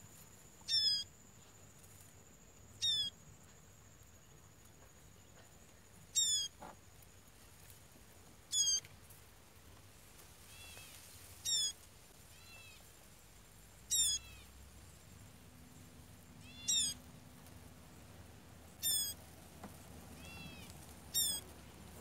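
A bird calling: nine short, sharp, falling calls repeated every two to three seconds, with softer chirps in between in the second half.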